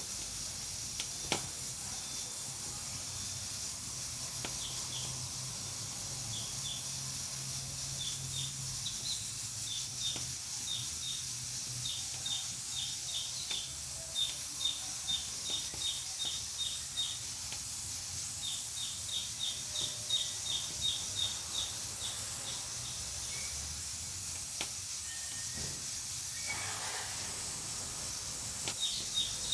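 Steady hiss of steam escaping from a pressure cooker on a wood-burning stove, with a few sharp crackles from the fire near the start. Runs of short high chirps repeat a few times a second through much of it.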